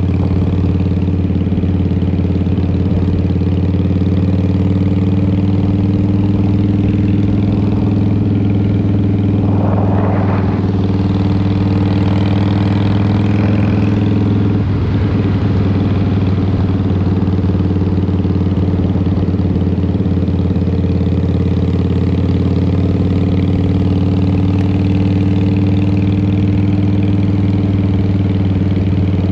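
2003 Harley-Davidson Fat Boy's Twin Cam 88 V-twin running through a Vance & Hines exhaust, steady under way. The pitch shifts slightly about halfway through.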